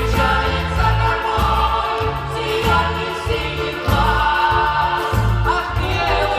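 A vocal ensemble singing a song in chorus over instrumental accompaniment with a pulsing bass line.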